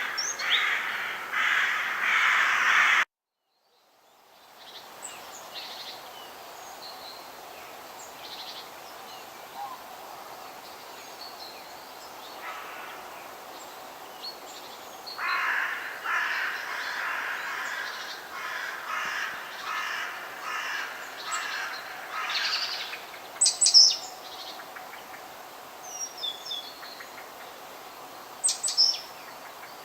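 Forest birdsong ambience: harsh, rapidly repeated calls come in two long spells, with short high chirps of smaller birds between them over a faint steady background. About three seconds in, the sound drops out completely for about a second.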